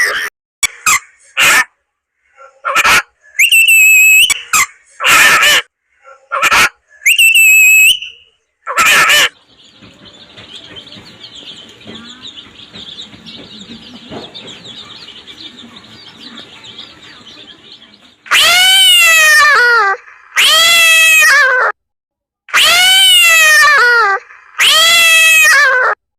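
A run of different animal calls: several short loud calls in the first nine seconds, then a fainter steady hiss-like chorus for several seconds, then four long calls, each falling in pitch.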